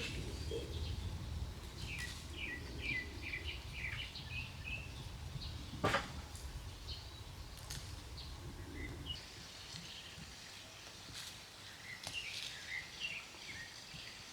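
Small birds chirping in quick runs of short notes, a couple of seconds in and again near the end, over a low steady rumble that fades out after about nine seconds. A single sharp click comes about six seconds in.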